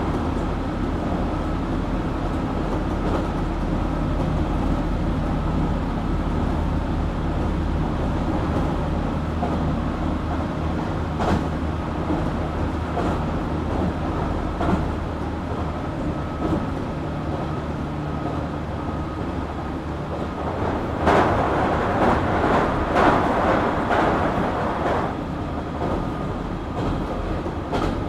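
Interior running sound of a JR Kyushu 817 series electric train at speed: a steady motor hum and rumble with scattered rail-joint clicks. A louder rushing clatter comes in for a few seconds about three-quarters of the way through. The car is one noted for an unusual running sound, likened to that of a Keio 7000 series.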